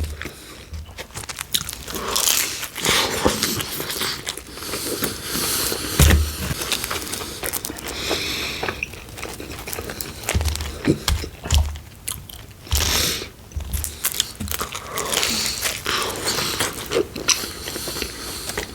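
Person biting and chewing pepperoni pizza, with crisp crunches from the crust and irregular chewing sounds.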